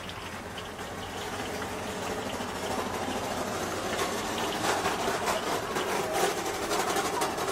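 Food cooking in a hot pot, a steady hiss with crackles that grows louder about halfway through.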